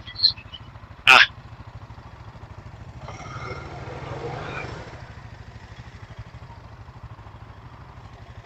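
Four-wheeler engine idling steadily. A short shout comes about a second in, and a fainter rush of engine noise swells from about three to five seconds in.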